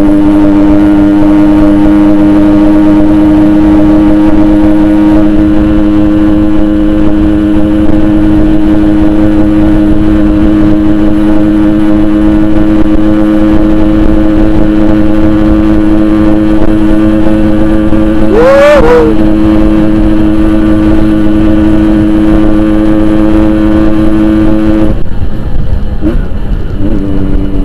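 Yamaha RX-King 135 two-stroke engine held at steady high revs at full throttle, a loud, constant drone. A brief rising-then-falling chirp cuts over it about 18 seconds in. Near the end the engine note drops and wavers as the throttle eases.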